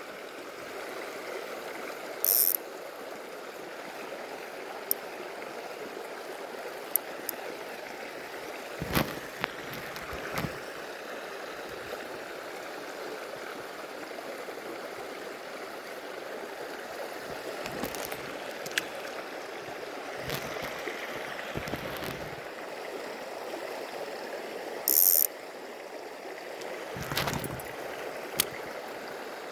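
Shallow stream water running steadily, with scattered sharp clicks, two short high rattles and a few dull knocks over it.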